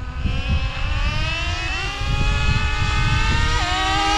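Traxxas Slayer Pro's 3.3 nitro two-stroke engine buzzing at high revs as the RC truck accelerates, its pitch climbing steadily. The revs dip briefly and pick up again about three and a half seconds in.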